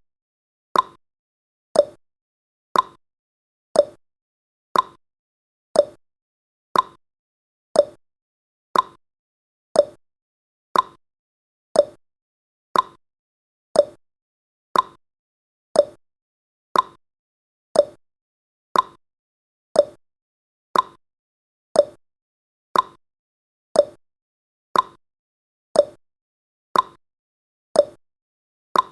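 Countdown timer's clock-tick sound effect: one short, sharp tick every second, in a steady, even rhythm.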